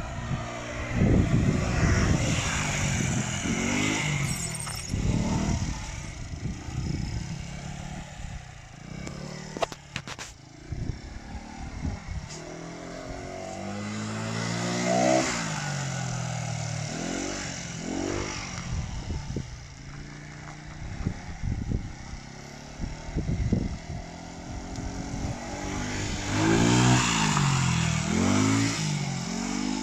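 Single-cylinder GY6 four-stroke fuel-injected scooter engine driving a homemade three-wheeled buggy, its pitch rising and falling again and again as it speeds up and slows down. It is loudest about halfway through and again near the end.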